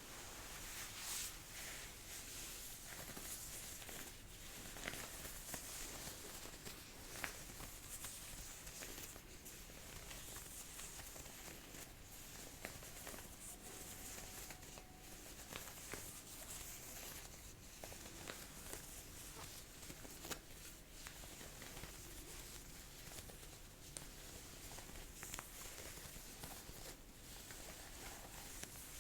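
Jacket fabric rustling as a sleeve is rolled up, a steady soft swishing broken by many small crinkles and ticks.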